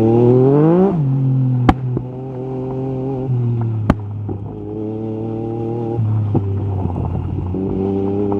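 Yamaha MT-09 SP inline-three engine through an Akrapovic carbon exhaust, rising in revs under acceleration and then dropping sharply as the throttle closes about a second in. It then runs at steady, lower revs with small changes in pitch, with two sharp cracks about two seconds apart.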